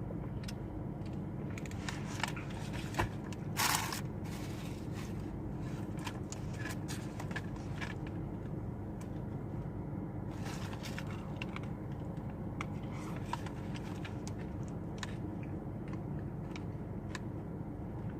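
Close-up eating sounds: chewing a fast-food burger and crunchy onion rings, with scattered small crunches and clicks and a short louder rustle about three and a half seconds in, over a steady low hum.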